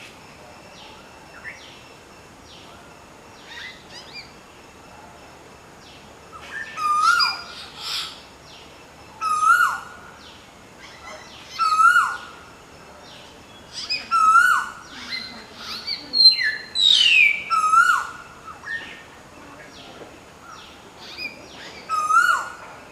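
Common hill myna and Asian koel calling. A loud call repeats about every two to three seconds, with quieter short notes between. A long falling whistle comes partway through.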